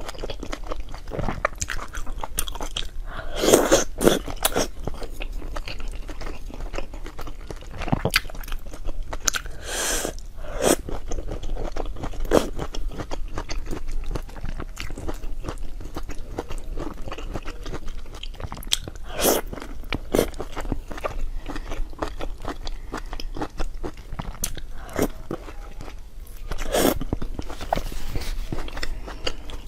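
Close-miked biting and chewing of crunchy food, with irregular crunches throughout and louder bites about 3–4 s in, around 10 s, about 19 s and about 27 s.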